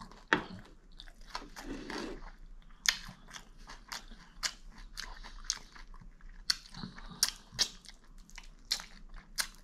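Close-miked eating: a person biting and chewing crunchy food, with many short sharp crunches.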